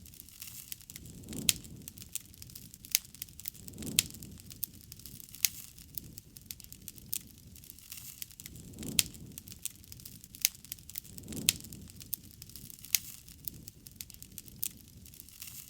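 Wood campfire crackling: irregular sharp pops and snaps, with a few louder pops that each come with a soft low rush.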